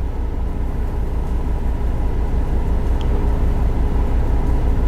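Ford EcoSport's 2-litre four-cylinder engine running, a steady low rumble heard from inside the cabin, with one faint click about three seconds in.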